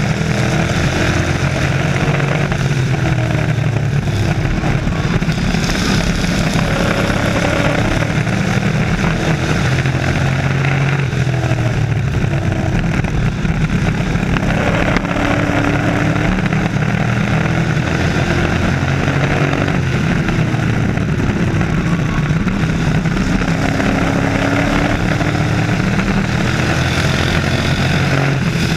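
A field of race trucks' engines running laps together, loud and continuous. Several engine notes rise and fall and overlap as the trucks accelerate and pass.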